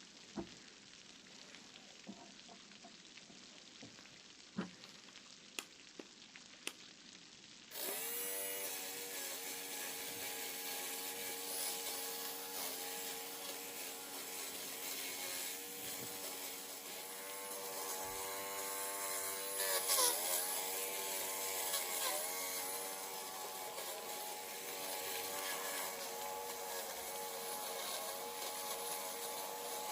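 A few light knocks, then about eight seconds in a small electric kitchen appliance motor switches on and runs steadily, its pitch dipping briefly twice near the middle.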